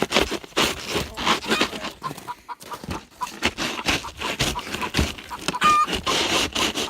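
Hen clucking amid repeated scraping and rustling in a chicken coop, with a brief high squeak about three-quarters of the way through.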